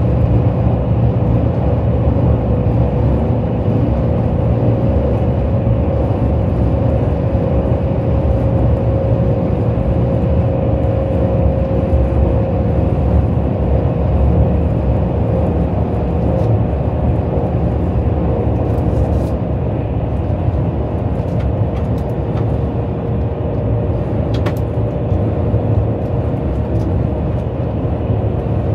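KTX high-speed train running at speed, heard inside the passenger cabin: a steady low rumble with a steady hum over it that eases slightly about two-thirds of the way through, and a few faint ticks.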